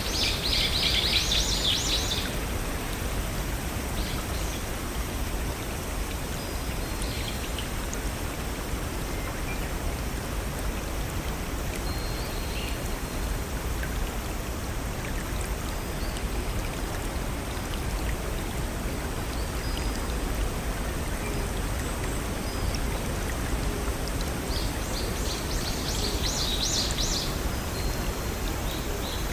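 Steady rushing of a small stream or waterfall. A songbird sings a short burst of rapid high notes about a second in, and again near the end.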